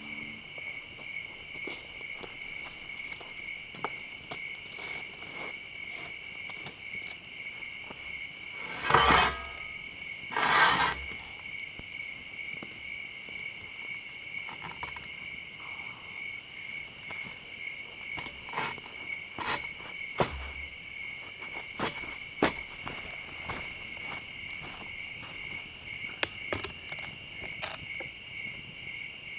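Crickets chirping in a steady, pulsing chorus. About nine and again about ten and a half seconds in come two short, louder rustling noises, and scattered sharp clicks sound throughout.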